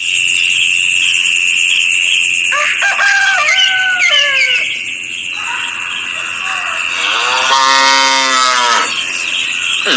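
Farm animal calls: shorter gliding calls about a third of the way in, then a cow mooing once, a single long call near the end, over a steady high-pitched whine.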